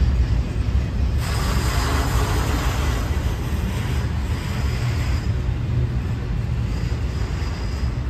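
Intermodal freight train's trailer-carrying cars rolling past, a steady low rumble of wheels on rail, with a hissy rise in the higher noise for a few seconds about a second in.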